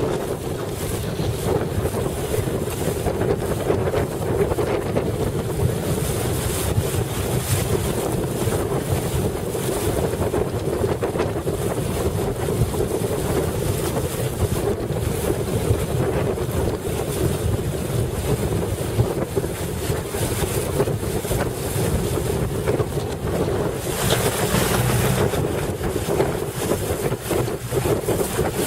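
Heavy wind buffeting the microphone over the rush of waves and water on the water around a boat, in gusts, with a steady low hum underneath.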